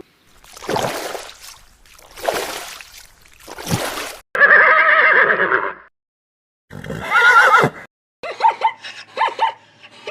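Horse whinnying: three breathy blows, then a loud, wavering neigh about a second and a half long, a second neigh, and a quick run of short whinnies near the end.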